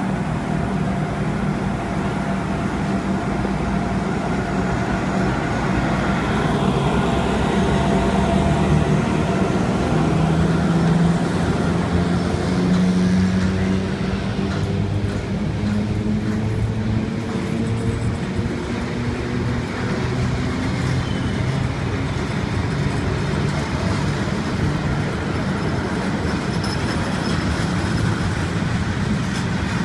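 Train running through a railway station: a steady rumble with low humming tones that shift in pitch.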